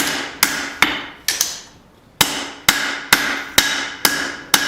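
Hand hammer striking a hot steel hatchet head on an anvil, about two ringing blows a second with a short pause near the middle: hand forging, knocking down the upsets on the head.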